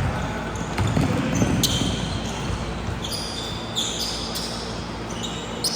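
Basketball game play on an indoor court: the ball bouncing, with short high sneaker squeaks several times from about a second and a half in.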